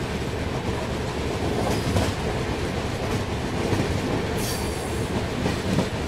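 Two passenger trains running side by side on adjacent tracks, heard from the open door of a moving coach: a steady rumble of steel wheels on rail with faint rail-joint clicks, and a brief high-pitched squeal about four and a half seconds in.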